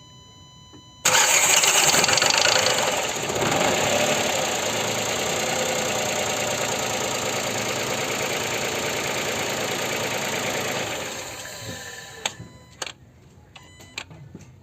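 Renault Sandero 1.0 12V three-cylinder engine starting: it catches suddenly about a second in, is loudest for the first couple of seconds with the noise that appears only on the first start, then settles to a steady idle before being switched off, followed by a few clicks.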